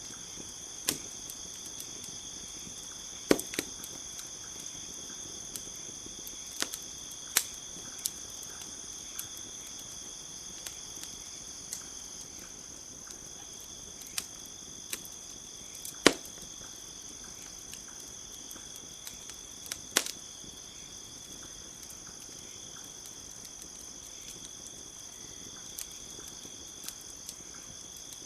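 Campfire crackling, with irregular sharp pops and a few louder snaps, over a steady high chirring of night insects.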